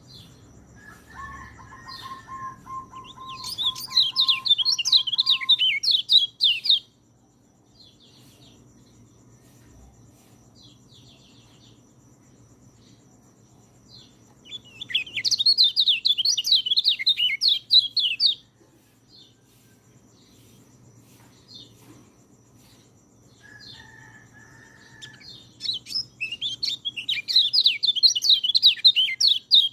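Peleci songbird singing in three bursts of fast, varied, chattering song, each a few seconds long and about ten seconds apart. A held steady whistle-like tone sounds under the first burst and briefly before the third, over a faint steady high-pitched tone.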